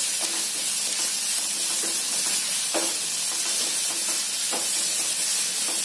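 Crushed green peas and sesame seeds sizzling in hot oil in a nonstick kadhai as they are stirred with a wooden spatula. The sizzle is steady, and the spatula scrapes briefly against the pan a few times.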